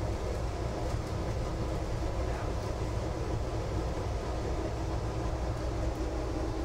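Steady low rumble and hum inside an Izukyu Resort 21 EX train car.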